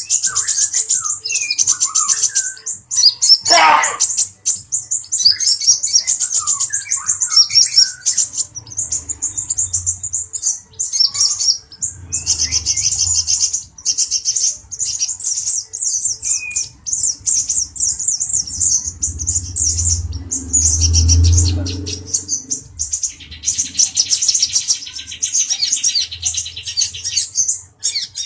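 Male kolibri ninja (a sunbird) singing a fast, high-pitched twittering song with rapid trills, with some lower single call notes in the first few seconds. A low rumble comes and goes, loudest about two-thirds of the way through.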